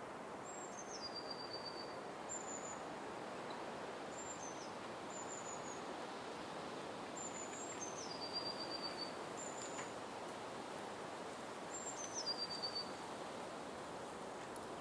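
Forest ambience: a steady rushing background with a small bird calling high over it. Three times, a high note drops in steps into a lower rapid trill, with shorter single high notes in between.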